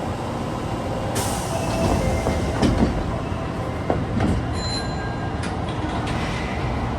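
Osaka Metro subway train running on the rails: a steady low rumble with a few sharp clicks and brief faint wheel squeals.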